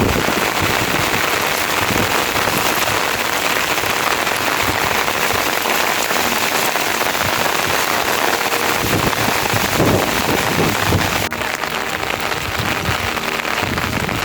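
Heavy rain falling in a steady hiss, with a brief dip in level about eleven seconds in.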